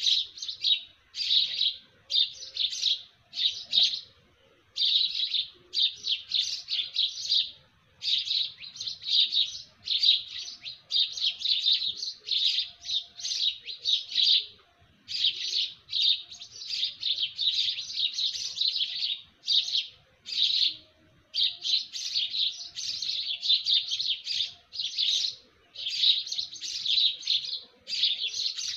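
Small birds chirping rapidly and almost without pause, in quick runs of high chirps broken by brief gaps.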